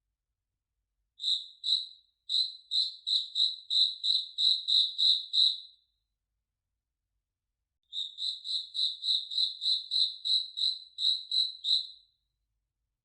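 A cricket chirping: high, clear chirps at one steady pitch, about three a second, in two long runs separated by a few seconds of silence.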